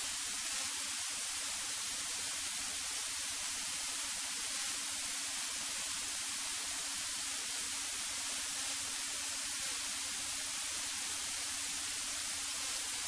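Steady static hiss on the cockpit audio feed, with a faint low hum beneath it and no changes.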